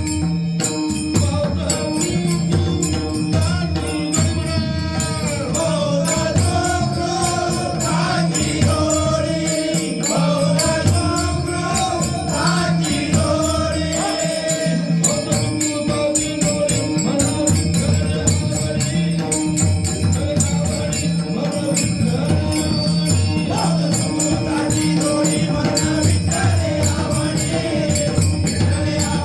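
Marathi devotional bhajan music: a sung melodic line over steady held tones, with pakhawaj drum strokes and the constant jingle of small hand cymbals keeping the beat. The melody is most prominent in the middle stretch.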